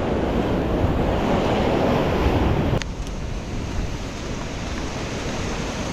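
Ocean surf washing in steadily, with wind on the microphone; the rush drops suddenly to a lower level a little under halfway through.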